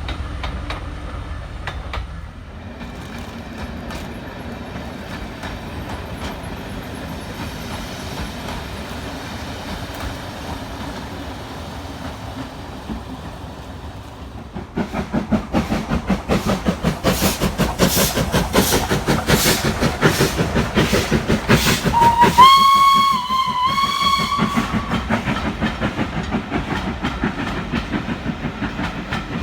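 A heritage railway train rumbles up, then passes close from about halfway through with a fast, even clatter. A little later it sounds one high single-note blast of its whistle or horn, lasting about two seconds.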